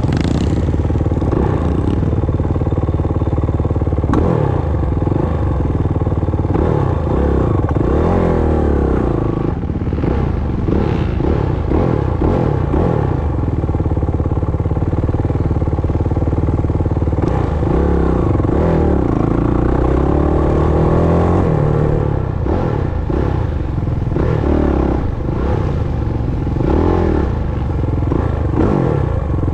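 Off-road motorcycle engine running hard as it is ridden, its pitch rising and falling again and again with the throttle and gear changes.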